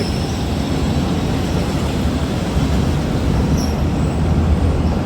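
Train rolling across a railway bridge close by: a steady low rumble of wheels on the track.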